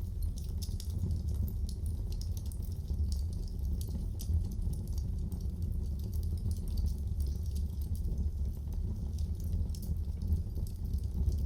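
Wood fire in a fireplace crackling, with frequent small pops over a low, steady rumble.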